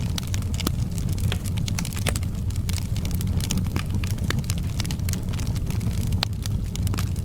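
Log fire in a fireplace crackling, with frequent irregular sharp pops and snaps over a steady low rumble of the burning flames.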